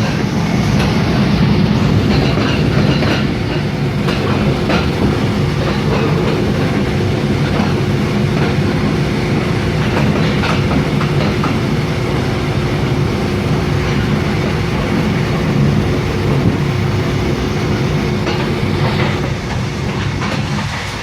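Passenger train running along the track, heard from aboard: a steady rumble of wheels on rails with occasional clicks.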